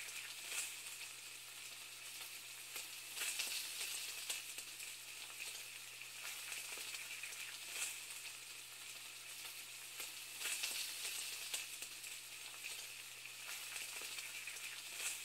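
Faint sizzle of food frying: a steady hiss full of small crackles that swells and fades every few seconds, over a low steady hum.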